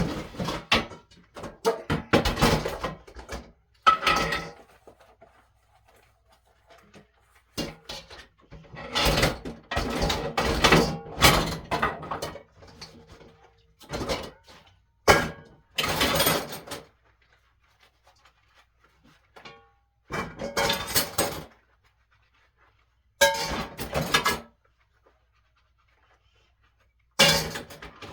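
Dishes being washed by hand at a kitchen sink: irregular bursts of dishes and pots clattering and knocking, one to two seconds at a time, with quiet gaps between.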